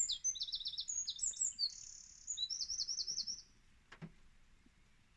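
A songbird singing: quick runs of high, repeated chirps and trills that stop about three and a half seconds in, followed by a single faint click.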